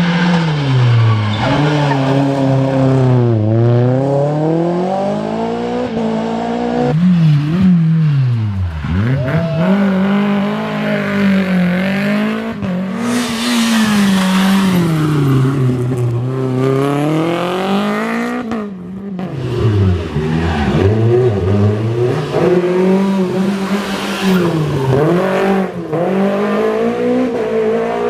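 Renault Clio Williams rally car's 2.0-litre four-cylinder engine at full competition pace, its revs repeatedly climbing and dropping sharply through gear changes and braking. It comes in a few short stretches with abrupt breaks between them.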